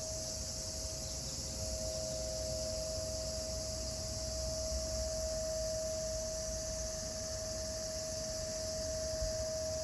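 Cicadas droning in a steady, unbroken chorus, a dense high-pitched buzz, with a steady lower tone running underneath.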